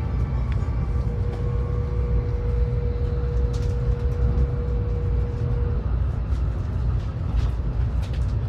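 Steady low rumble inside the cabin of a Taiwan High Speed Rail 700T train running just after departure, with a thin steady whine that stops about six seconds in.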